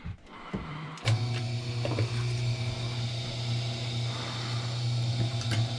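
Wire stripping machine's motor switched on about a second in after a few handling clicks, then running with a steady hum.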